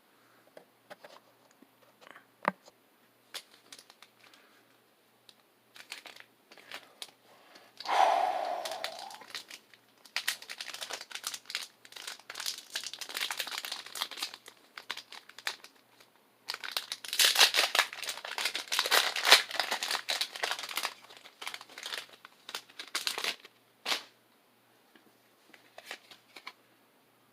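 Foil Pokémon booster pack wrapper being handled, crinkled and torn open: light handling ticks at first, a sudden loud tear about eight seconds in, then long stretches of crinkling.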